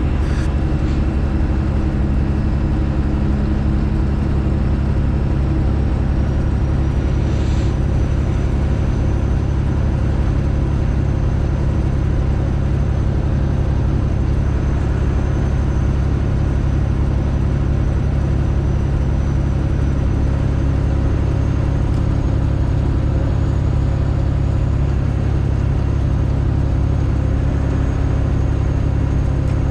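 Straight-piped Detroit Diesel engine of a Freightliner Classic XL semi truck running steadily under way: a deep, even drone with a faint thin whine above it.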